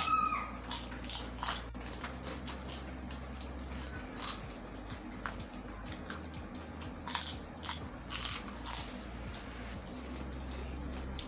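Close-miked chewing of crispy food: irregular crunches and wet mouth clicks, thickest from about seven to nine seconds in.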